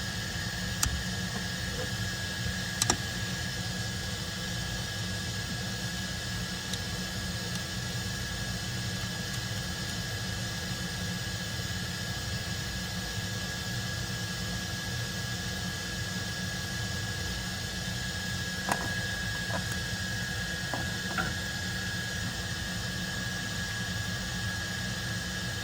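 Steady mechanical noise with a constant high whine and a low hum, broken by a few sharp clicks about three seconds in and again several times near the twenty-second mark.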